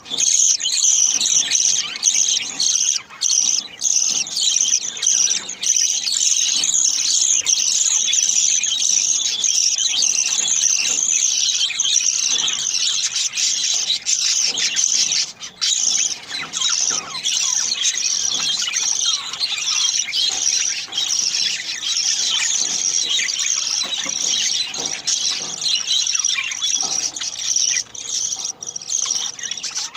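Budgerigar chicks begging for food while the mother budgie feeds them: a dense, continuous high-pitched squealing chatter from several chicks, with a brief break about halfway through.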